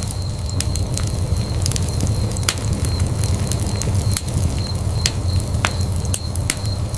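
Wood fire crackling in a fireplace. Irregular sharp pops and snaps, a few each second, sound over a steady low rumble of burning.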